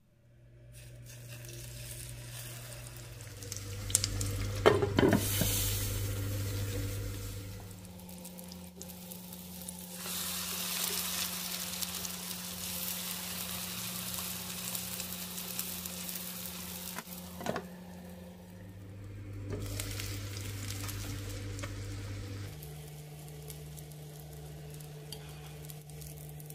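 Battered zucchini slices sizzling as they fry in oil in a nonstick pan, the sizzle swelling and easing, with a few sharp clinks of a fork against the pan.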